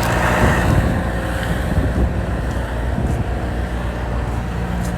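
A motor vehicle's engine idling with a steady low hum, with wind noise on the microphone over it.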